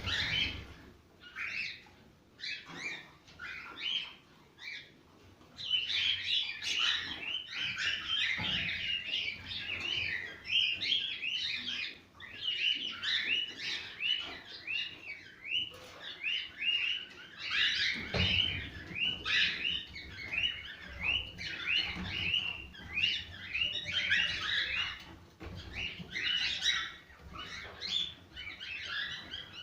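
Cockatiels chirping and whistling: a few separate calls at first, then from about six seconds in a dense, nearly unbroken run of short chirps.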